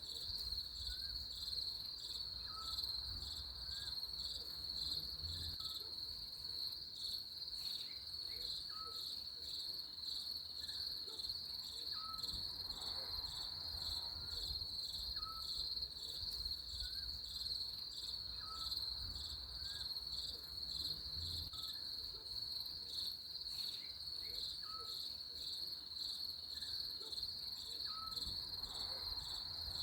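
Crickets chirping steadily in a high, fast-pulsing trill. A faint short chirp repeats about every second and a half beneath it.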